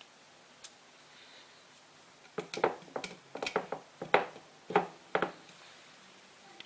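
Small hand tools knocking and clinking in a quick, irregular run of about eight sharp clicks, after a couple of seconds of quiet.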